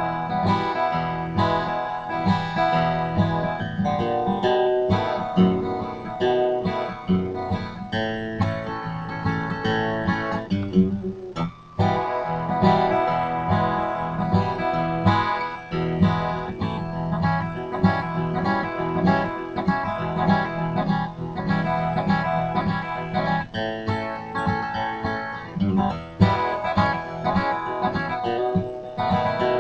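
Seagull Entourage acoustic guitar played in the key of E, with a brief pause about eleven seconds in.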